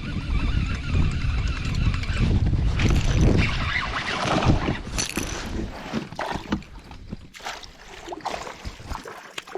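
Wind buffeting the microphone with a heavy low rumble, strongest in the first half, while water slaps and splashes against a kayak hull, with scattered short knocks in the second half.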